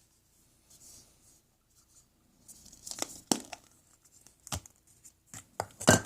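Packaging being torn and crinkled by hand: faint rustling, then from about halfway a run of sharp rips and crackles, the loudest near the end.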